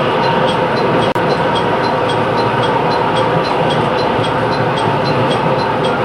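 A train running slowly, heard from the front of the train as a steady drone and rumble. A faint, regular high ticking of about four a second runs through it.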